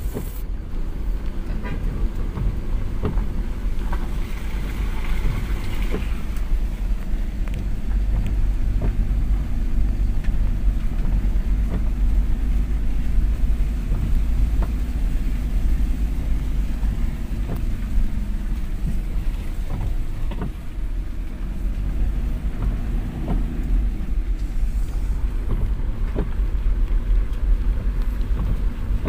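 Vehicle driving along the road: a steady low rumble with a few brief knocks.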